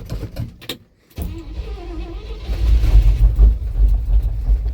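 Willys M-38 Jeep's four-cylinder flathead engine cold-starting: uneven sputtering for the first second, a brief gap, then it catches and runs, picking up speed. This is a cold start in winter after months of sitting, with a weak battery.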